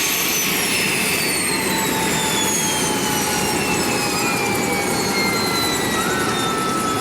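Bell 412 helicopter's twin turbine engines spooling down at shutdown: a high whine that falls steadily in pitch over a steady rushing noise.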